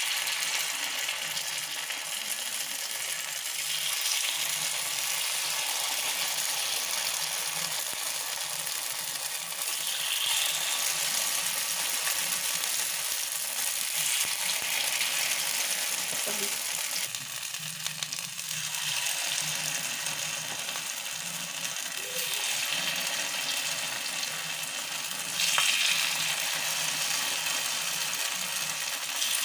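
Hot oil sizzling steadily in the wells of a kuzhi paniyaram pan as idli batter with drumstick leaves is spooned in to fry. It gets briefly louder near the end.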